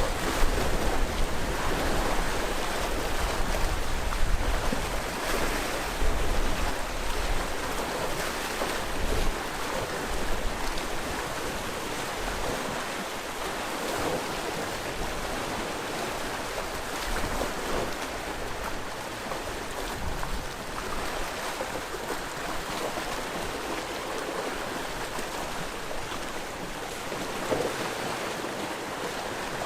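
Sea waves washing on the shore in a continuous surf wash, louder over the first ten seconds or so with wind buffeting the microphone, then steadier.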